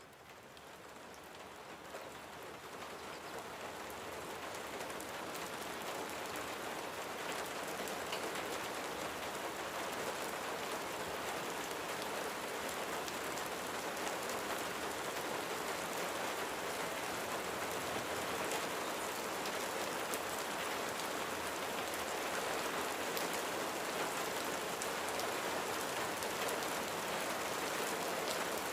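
Steady rain falling, a soft even hiss with faint scattered drop ticks, fading in from near silence over the first few seconds and then holding level.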